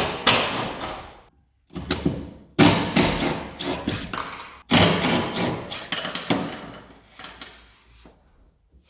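Clattering work noise from undoing a car's rear-seat bolt: about six sharp bursts of knocking and rattling, each fading over about a second, growing weaker near the end.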